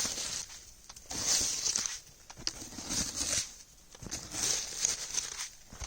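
Crunchy snow being dug out and scooped with a snowshoe used as a shovel, a scrape and crunch every second or so.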